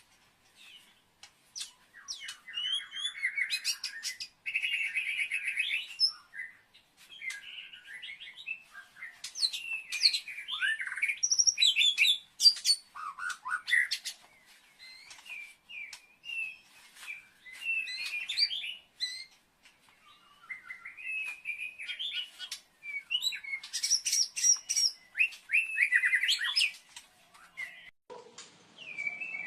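A songbird singing a varied song of quick chirps, trills and rising and falling whistles, in phrases of a few seconds with short pauses between them.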